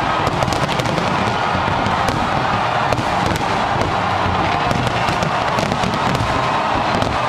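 Fireworks display going off in a dense, continuous barrage: many sharp cracks and pops over a steady wash of noise.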